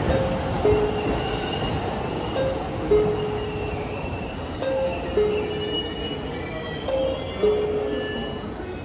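JR E257 series electric train rolling slowly into the platform and braking to a stop, its low rumble fading, with faint short high squeals. A two-note high-low chime repeats about every two seconds over it.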